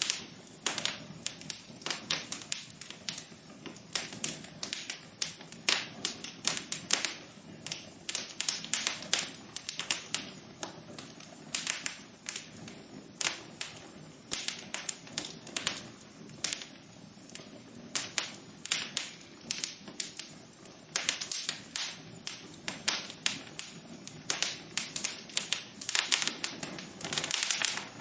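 Wood fire burning in a fireplace, crackling with frequent irregular sharp pops and snaps over a soft steady hiss.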